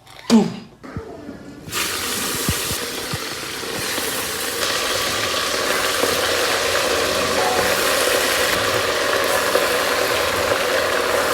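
Food frying in a hot pan, a loud steady sizzle that starts suddenly about two seconds in, after a short falling sweep.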